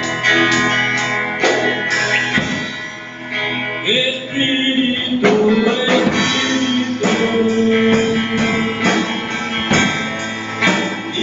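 Live worship band music: a singer holding long sung notes over guitar and other instruments, with percussive hits throughout.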